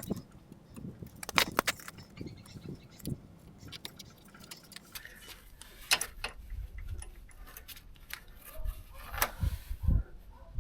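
Metal hand tools and parts clinking and knocking as they are handled, a handful of sharp separate clicks spread over the seconds, over quieter low handling and rustling noise.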